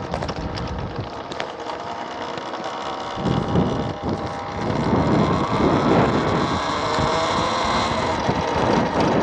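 Wind buffeting the microphone on a moving electric motorcycle, getting stronger about three seconds in as the bike picks up speed, with a faint whine from the motor rising in pitch.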